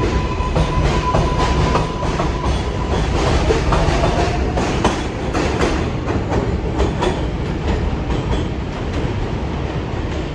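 New York City subway train of R142-series cars running between stations, heard from inside the car: a steady rumble with wheels clacking over rail joints. A tone fades out after about two seconds, and a faint rising whine follows near the middle.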